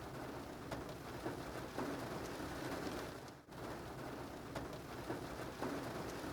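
Steady rain falling, with scattered drops ticking now and then; it cuts out briefly about three and a half seconds in.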